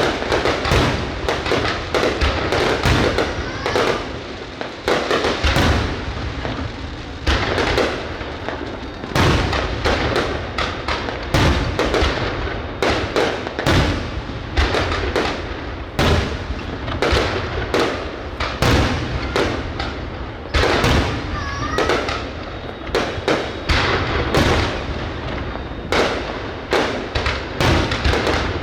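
Fireworks display going off without pause: a dense run of bangs and crackles in quick volleys.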